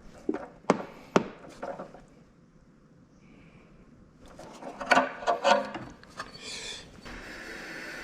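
A series of sharp knocks and clinks, like tools and parts being handled: a few spaced strikes in the first two seconds, then a quicker cluster around five seconds in. Steady background music comes in near the end.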